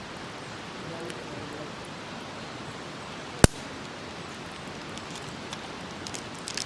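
Wood campfire burning with a steady hiss and a few small crackles, and one sharp loud pop about three and a half seconds in.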